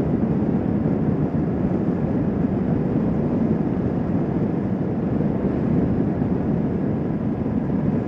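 Motorcycle riding at a steady cruising speed: the engine running under wind rush on the microphone, an even, unchanging noise.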